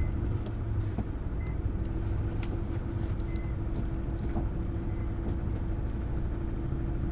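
Hino Blue Ribbon City Hybrid bus (BJG-HU8JLFP) running, heard from inside: the diesel engine drones steadily with a steady whine over it. There is a short hiss of air about a second in.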